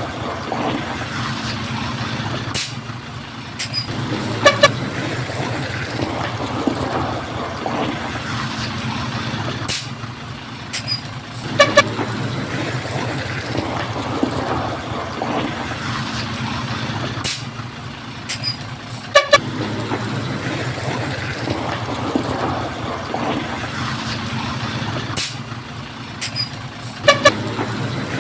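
Heavy construction machinery engine running steadily, with a sharp click and a short pitched horn-like toot recurring about every seven and a half seconds.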